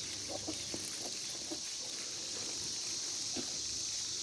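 Periodical cicadas chorusing en masse: a steady, unbroken high-pitched buzz, with scattered faint short sounds underneath.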